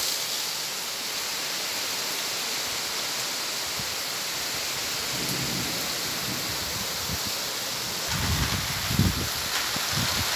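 Heavy rain falling steadily, an even hiss throughout. Low rumbles come in about halfway through and again near the end.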